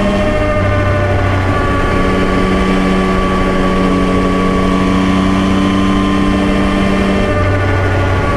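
Yamaha Tracer 9's CP3 three-cylinder engine running at steady revs under way, with small shifts in pitch about two seconds in and again near the end.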